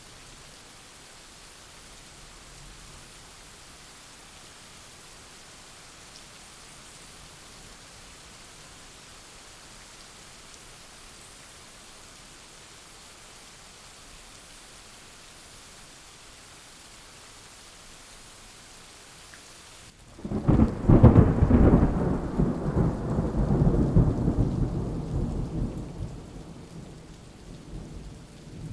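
Steady rain falling, then about two-thirds of the way through a loud clap of thunder breaks in suddenly and rolls on as a deep rumble, dying away near the end.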